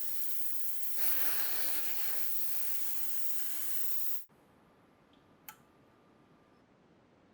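Steady hissing over a low, even hum, which cuts off suddenly a little over four seconds in. A single faint click follows about a second later.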